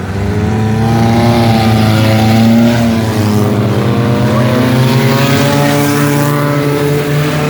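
Demolition derby car engines running and revving, the pitch drifting gently up and down.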